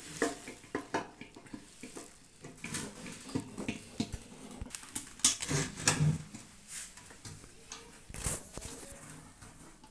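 Irregular light clicks, taps and rattles of metal parts being handled as a microwave oven's turntable motor is fitted to its metal oven cavity.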